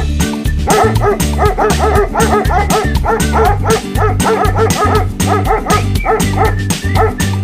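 A dog barking rapidly and repeatedly over loud, upbeat background music with a steady beat.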